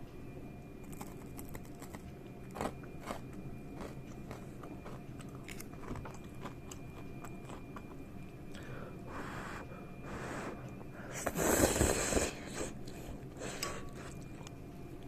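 Someone biting and chewing crunchy deep-fried young sea bass (seigo karaage), with scattered crisp crunches and one louder burst of crunching about eleven seconds in.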